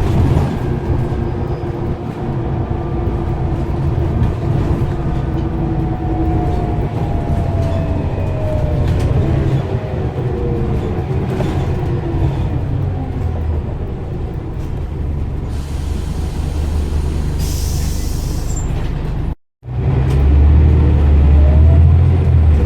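Scania CN94UB OmniCity bus engine running hard under load, with a whine that falls in pitch partway through. The sound drops out for a moment near the end, then the engine comes back louder.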